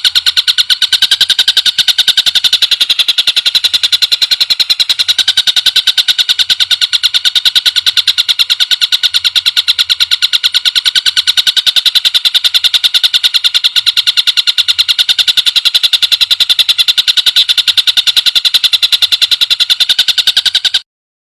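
Recorded songbird call used as a training master: a very fast, even run of repeated high notes that keeps going without a pause and cuts off abruptly near the end.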